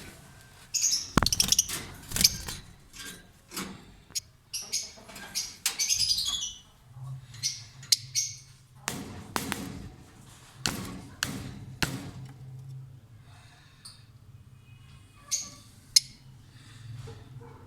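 Lovebirds chirping and squawking in shrill bursts, mixed with many sharp clicks and knocks. A low steady hum comes in about seven seconds in.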